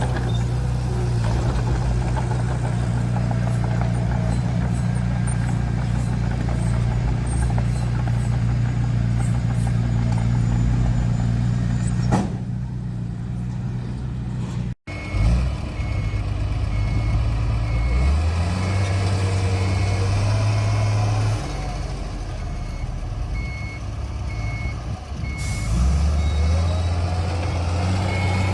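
Bulldozer's diesel engine running steadily. After an abrupt cut about halfway, the engine note shifts up and down and a reverse alarm beeps at a regular pace as the machine backs up.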